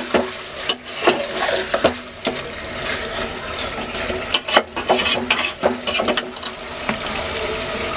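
Chicken and tomato masala frying in an aluminium pot with a little water added, sizzling steadily while a metal slotted spatula stirs it, with repeated scrapes and clicks of the spatula against the pot.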